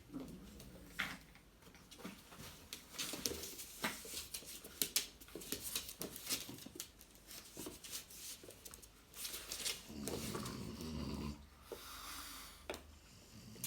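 Dogs playing: scuffling and many sharp clicks, with short low growls and a longer growl about ten seconds in.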